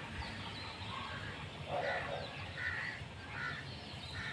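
Crows cawing in the background, about four short calls in the second half.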